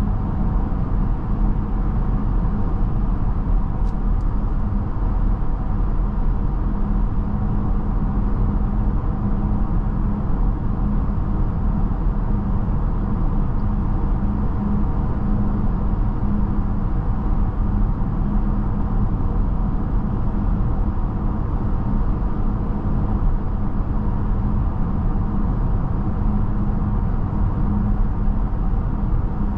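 Mercedes-Benz GLB350 driving along steadily, heard as an even low rumble of road and tyre noise with a steady hum.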